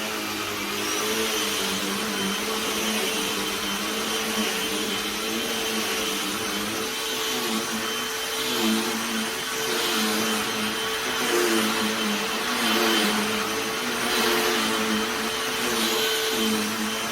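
Cordless handheld vacuum running steadily: an even motor hum and whine, with a rush of air that swells and fades every second or two.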